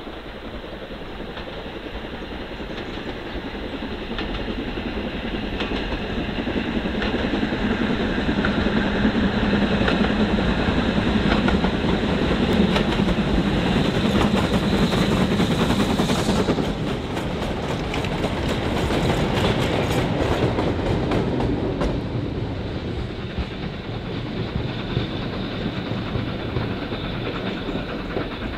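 Steam-hauled heritage train passing along the line. It grows louder as it approaches and is loudest about halfway through. Its wheels then click over the rail joints as the coaches roll by, and the sound fades towards the end.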